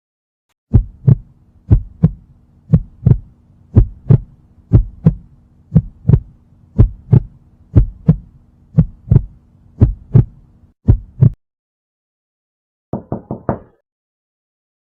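Heartbeat sound effect: paired lub-dub thumps about once a second over a faint steady hum, stopping after about ten seconds. A short burst of four quick clicks follows near the end.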